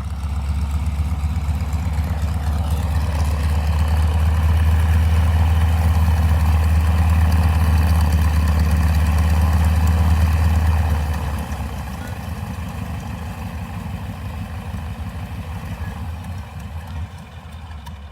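Light propeller aircraft's piston engine running steadily as the plane taxis after landing, then easing off about eleven seconds in and carrying on more quietly.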